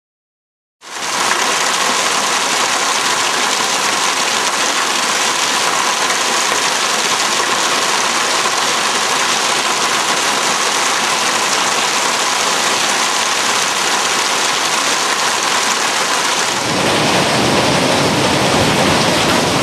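Heavy hailstorm: hailstones pelting down in a dense, steady hiss and clatter that starts abruptly about a second in. Near the end it turns deeper and a little louder.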